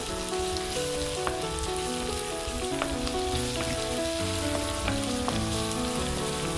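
Sliced shallots and curry leaves frying in hot oil in a nonstick kadai: a steady sizzle, broken by about five clicks of a wooden spatula against the pan as they are stirred. Background music of held notes plays underneath.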